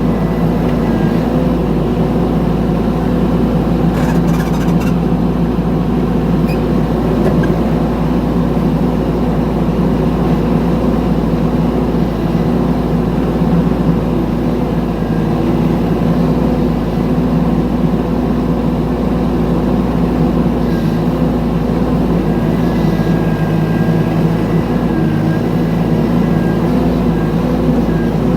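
Mini excavator engine running steadily under work, with a brief clatter about four seconds in.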